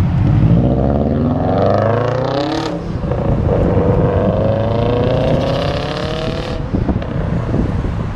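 Car engine and exhaust accelerating hard: the revs climb, drop at a gear change about three seconds in, then climb again through the next gear until about six and a half seconds in, when it backs off.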